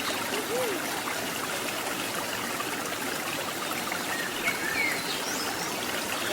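Waterfall and stream water splashing steadily, with a modest flow after several dry days. A few faint short chirps come in about four to five seconds in.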